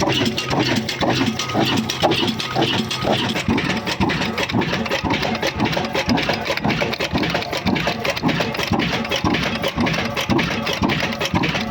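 Old Hornsby stationary 'black engine' running steadily with an even, rhythmic beat, driving an atta chakki flour mill.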